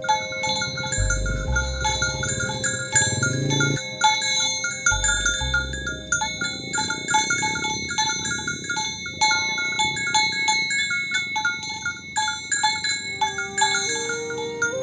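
A cow mooing twice, each a long, low call with a bending pitch, the first about a second in and the second about five seconds in. Over this runs a steady layer of bright, ringing bell-like tones and quick note patterns.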